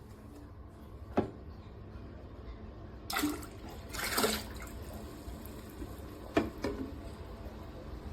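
Water splashing or pouring in two short bursts over a low steady hum, with a few sharp clicks before and after.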